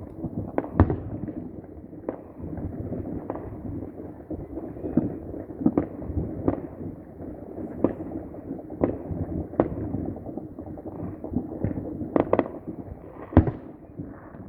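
Fireworks and firecrackers going off: sharp irregular bangs, roughly one or two a second, over a constant low rumble of many more distant explosions. A quick cluster of bangs comes about twelve seconds in, and the loudest single bang comes near the end.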